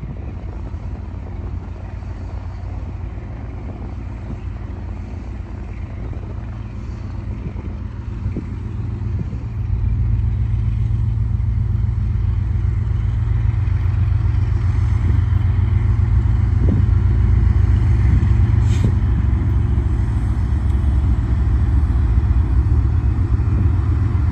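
BNSF train passing: a steady, heavy low rumble that grows louder about ten seconds in.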